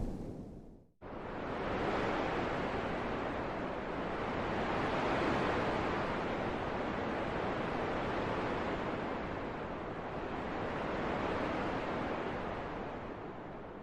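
Steady rushing wind, swelling and easing in slow gusts. It starts abruptly about a second in after a brief dip to near silence, and tapers off near the end.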